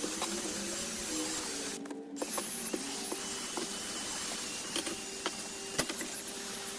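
Cordless drill spinning a scrub brush on car carpet: a steady motor whir that rises in pitch as it spins up at the start, with brush hiss and scattered clicks, cut off briefly twice.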